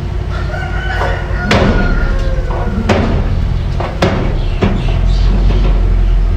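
Mini bulldozer running with a steady low engine rumble, broken by about five sharp metallic clanks. A brief high squeal sounds in the first two seconds.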